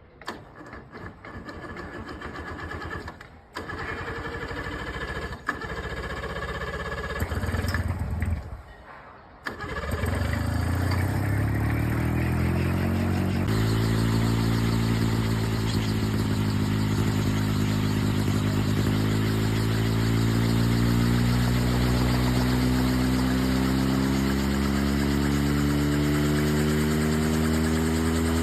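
Homemade coaxial helicopter starting up. Irregular clicks and short bursts come first. About ten seconds in, its motor and rotors start and spin up, rising in pitch for a few seconds, then run on steadily with the pitch slowly creeping higher.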